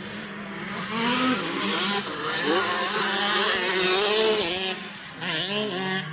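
Several 125 cc motocross bikes racing past, their engines revving up and down. The sound grows louder about a second in and fades about five seconds in.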